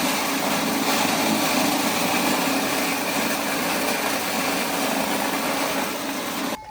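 Motor-driven corn kernel separating machine (corn sheller) running steadily with a loud mechanical whirr, cutting off suddenly near the end.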